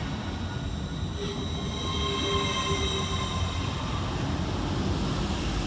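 LNER Class 801 Azuma electric train rolling slowly past, with low rumble from the carriages on the rails. A high whine of several steady tones comes in about a second in and fades out by about four seconds, as the rear of the train goes by.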